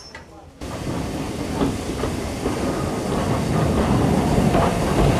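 A railway locomotive approaching along the track: a rumble with irregular clacks of wheels over rail joints, growing louder.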